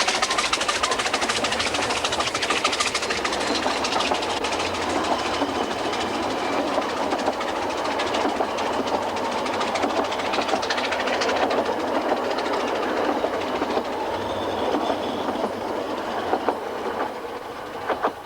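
Narrow-gauge steam train on the move: rapid exhaust beats and rail clatter, fading over the last few seconds.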